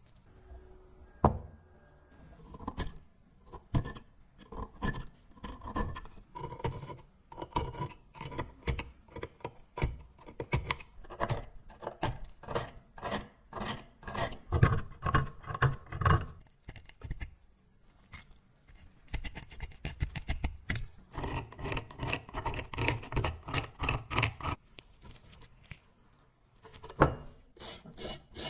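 Repeated hand strokes scraping or filing the dagger's metal, about two strokes a second, with a couple of short pauses.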